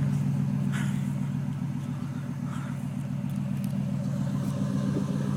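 Dodge Ram pickup's V8 engine idling steadily just after a cold start.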